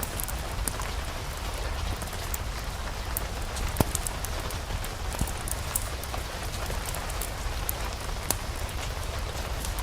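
Steady rain falling, an even hiss with scattered sharp pops and clicks, the loudest a little before four seconds in.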